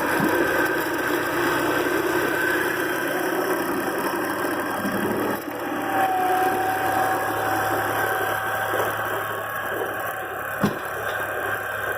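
Kubota diesel tractor engine running steadily, dipping briefly in level about halfway through, with one sharp knock near the end.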